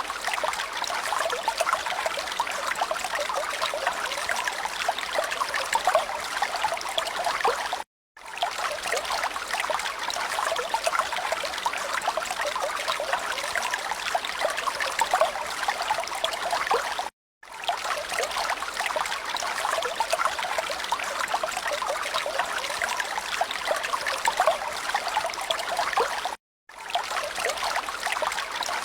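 Running water, a steady trickling stream, playing as a loop that cuts to silence for a split second about every nine seconds, near 8 s, 17 s and 26 s in.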